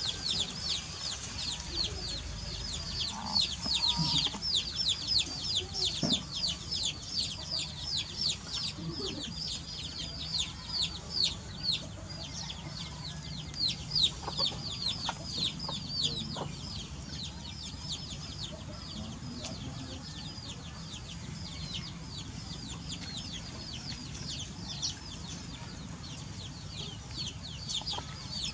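Birds chirping: a dense, continuous run of short high chirps, each sweeping downward, several a second, louder in the first half.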